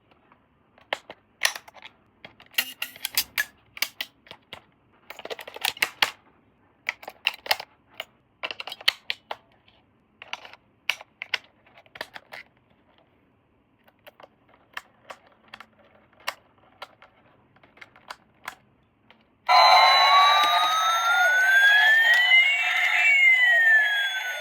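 Irregular clicks and crackles of plastic toy parts and packaging being handled, then, about nineteen seconds in, a loud electronic toy sound effect starts suddenly, its siren-like tones gliding up and down across each other.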